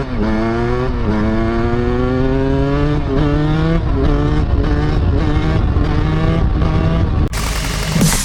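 Two-stroke dirt bike engine accelerating hard, its pitch climbing and dropping back several times as it revs up and shifts or rolls off the throttle. About seven seconds in it cuts off suddenly into electronic dance music.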